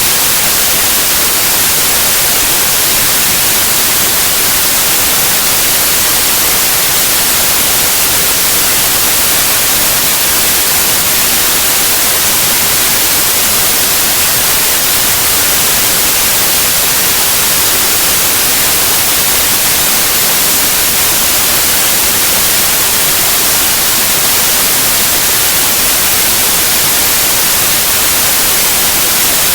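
Synthetic white noise: a loud, steady hiss, even across the frequencies and brightest in the highs, with no change at all.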